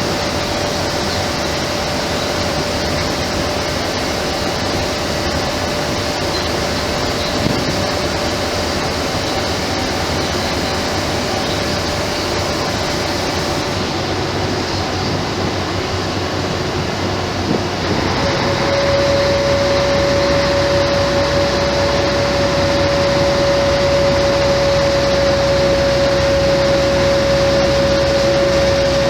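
Mercedes-Benz O-500MA bus's Bluetec 5 diesel engine and ZF automatic transmission running, a steady mechanical noise with a constant whine through it. About two-thirds of the way through it grows louder and the whine stronger.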